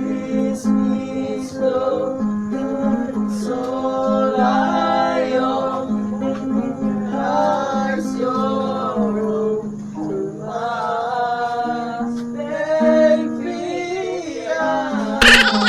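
People singing together to a strummed acoustic guitar, a casual jam. Near the end there is a short, loud burst of noise over the music.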